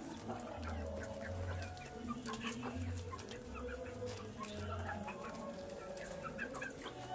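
Young chickens peeping and clucking as they feed, with many short overlapping calls and scattered sharp pecking taps.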